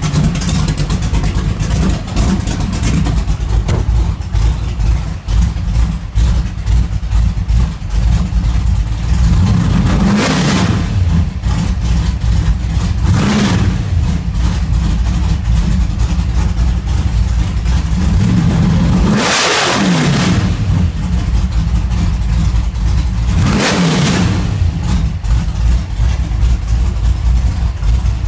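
Pro-street 1956 Buick's engine running at idle after a cold start, blipped up and back down four times, about ten, thirteen, nineteen and twenty-four seconds in.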